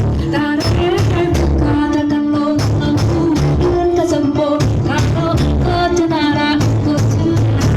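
Loud music with a sung melody, heavy bass and a steady beat, played over a large carnival sound system.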